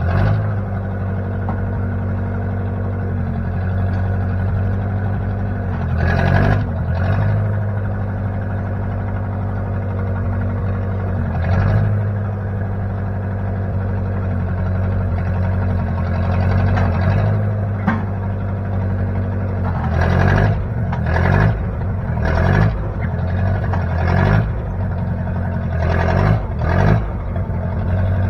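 Engine of a 1960 Case 540 loader backhoe running steadily, with brief louder bursts of noise about six and twelve seconds in and several more close together in the last third.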